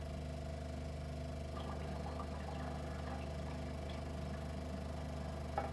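Steady low hum of a Super 8 sound film being played, with a few faint soft noises in the film's quiet track between about one and a half and four seconds in.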